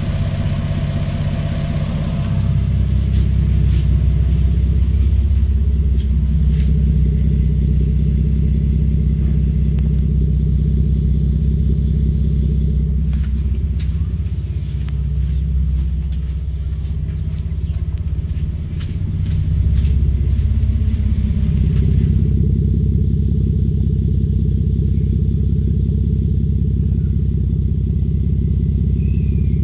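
1993 Toyota Supra's inline-six idling steadily after a cold start, the fast cold idle settling down. There is no valvetrain tick. The low drone shifts in tone about two seconds in and again past twenty seconds.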